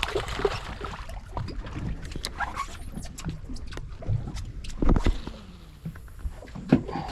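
Fishing boat at sea: a steady low rumble with wind and water noise, broken by scattered clicks and knocks from gear on board, and a louder thump about five seconds in.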